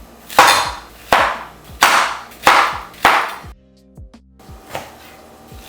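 A knife slicing the skin off an orange: five quick cutting strokes about two-thirds of a second apart, then a short pause.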